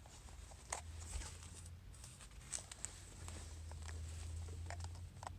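A few faint, scattered clicks and rustles of a Cobb Accessport's diagnostic-port connector and cable being handled, over a low steady hum.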